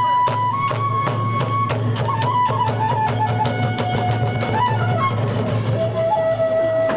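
Kagura hayashi music: a bamboo transverse flute plays a held, stepping melody over steady drum strokes and small hand cymbals, and the beat quickens after about two seconds.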